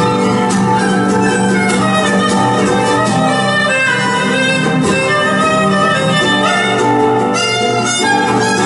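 Instrumental music for a belly dance, led by a violin playing a melody over a steady low accompaniment.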